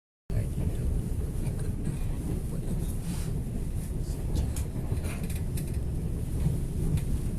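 Steady low rumble of a moving express train heard from inside the passenger car, with a few faint ticks over it. It cuts in just after a brief dead silence at the start.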